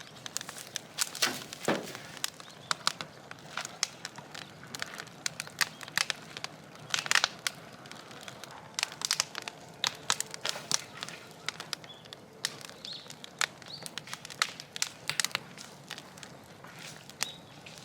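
Scrap wood burning in an incinerator, crackling and popping irregularly.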